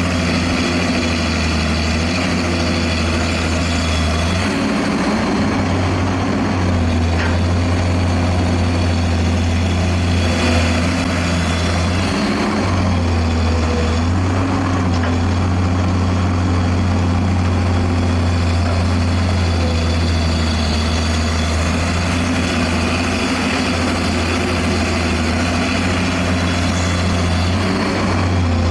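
Heavy diesel engine of construction machinery running steadily, with its note shifting briefly a few times.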